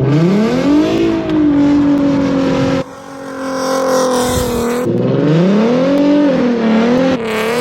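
Car engine revving: the revs rise quickly and hold high, then cut off suddenly near three seconds in, with a second quick rise and high hold from about five seconds in.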